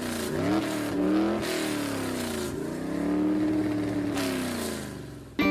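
Racing car engine accelerating, its pitch climbing and dropping sharply twice as it shifts gear, then rising and falling more slowly as it fades away near the end.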